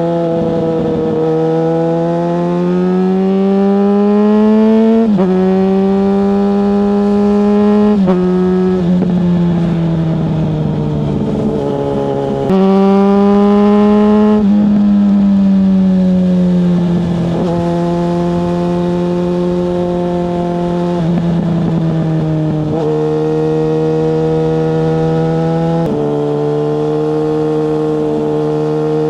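Yamaha FZ6S motorcycle's 600cc inline-four engine under way, heard from the rider's seat. Its pitch climbs and drops sharply about five and eight seconds in, as at gear changes, jumps up about twelve seconds in, then falls and holds steadier with small steps up and down.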